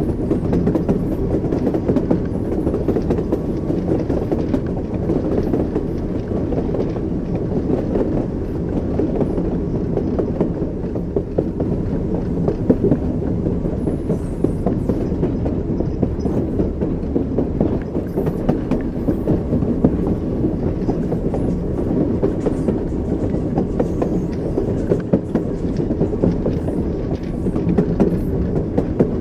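Train wheels clattering steadily over rail joints, a continuous low rumble with dense clicking, as heard riding along in a railway carriage.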